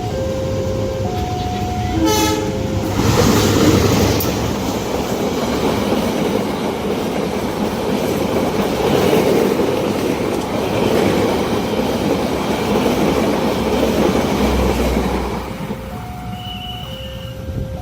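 Level-crossing warning alarm alternating between two tones, broken about two seconds in by a short train horn blast; then a long train passes with steady rail and wheel noise for about twelve seconds, and the two-tone alarm is heard again near the end.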